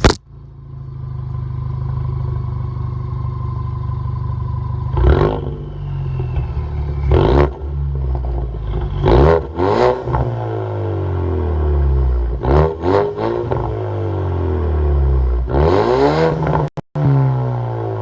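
2019 Ford Mustang EcoBoost's turbocharged 2.3-litre four-cylinder through a muffler and resonator delete with a custom Y-pipe, warm, idling and then revved in about seven short blips that rise and fall back to idle, the longest near the end. A sharp knock at the very start as the camera is set down.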